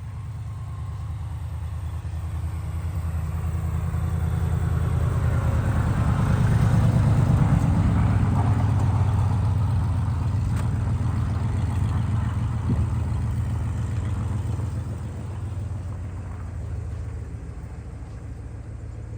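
1988 Chevy pickup's engine running, growing louder over the first several seconds and then easing off as the truck moves.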